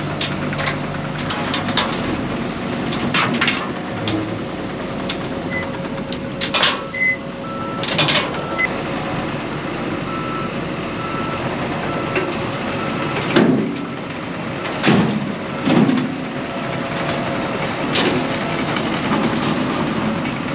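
Heavy earthmoving machinery running at work, its diesel engine steady. A backup alarm beeps at an even pace through the middle, and several sharp metallic clanks stand out.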